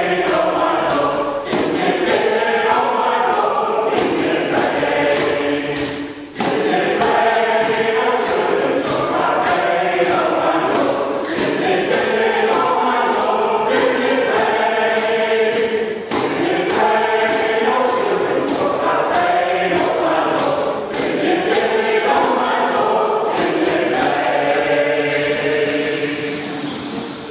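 A choir singing a song in phrases, over a steady percussive beat of about two taps a second.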